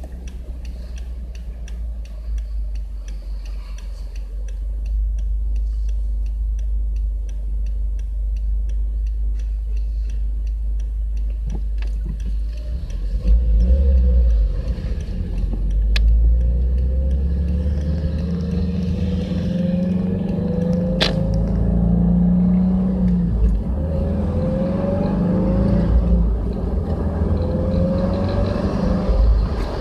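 Subaru Legacy BL5 GT's turbocharged flat-four engine and exhaust while driving: a low, steady rumble at first, then from about halfway through, the engine note rises in pitch several times over, as the car accelerates and picks up revs again and again.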